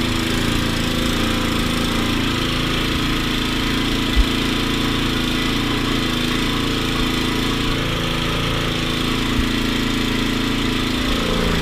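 Snowblower's engine running steadily under load as the machine is driven forward in second gear, with two short thumps, the louder about four seconds in.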